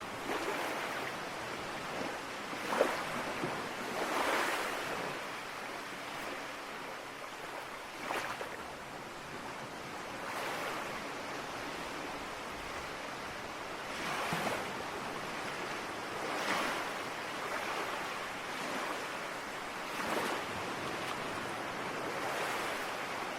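Ocean surf: a steady hiss of water with waves breaking and washing in every few seconds, one a little sharper about three seconds in.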